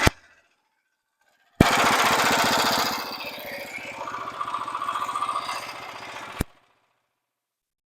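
Portable band sawmill's small gas engine running with a rapid pulsing beat, dropping in level about a second after it cuts in, with a steady whine over it after that. The sound cuts in and out abruptly, near silent before and after, from a faulty microphone.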